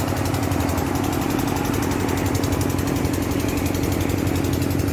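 An engine running steadily, a low even drone that holds without change.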